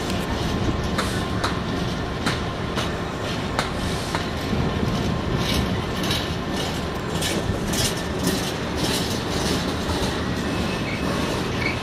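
Empty container flat wagons of a freight train rolling past, a steady rumble of steel wheels on rail with repeated clicks as the wheels run over the track.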